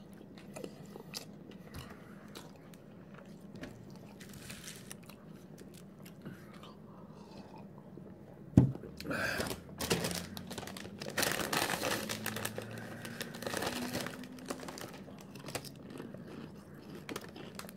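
A person crunching and chewing potato chips with the mouth closed, faint sharp crunches through the first half. About halfway through comes a sudden loud sound as he takes a drink from a glass, followed by several seconds of louder, irregular drinking and chewing noises.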